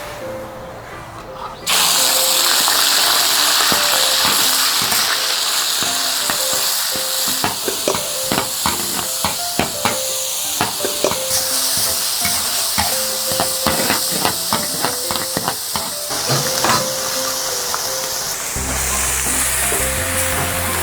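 Food tipped into hot oil in a wok starts sizzling loudly about two seconds in, then a metal spatula clacks and scrapes against the wok many times as it is stir-fried.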